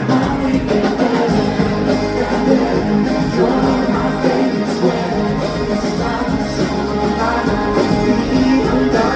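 Live indie-pop band music with guitar and a steady bass line, and some singing.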